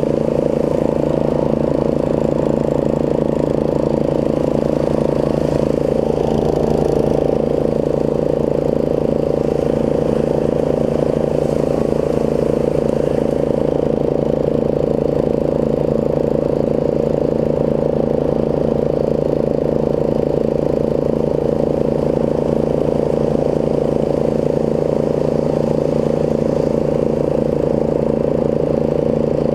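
Snapper rear-engine riding mower's engine running steadily at a constant speed.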